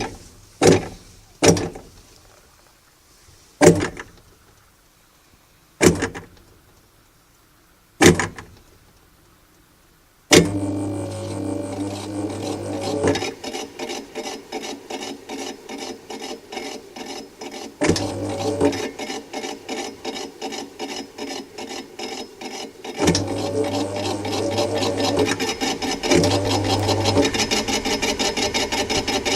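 Hitachi NW-R801 washing machine spinning up with an abnormal noise. After several separate knocks, about a third of the way in the motor starts with a low hum that cuts in and out, under a fast rasping rattle that grows louder near the end. The noise is taken to be the motor fan: its weld has come loose, and a piece of the fan lifts under centrifugal force and strikes the motor case.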